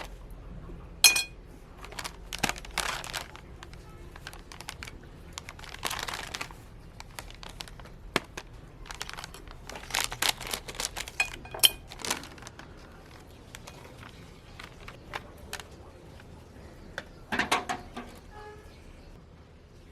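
Crinkly packaging being handled and torn open, rustling in irregular bursts with several sharp clicks.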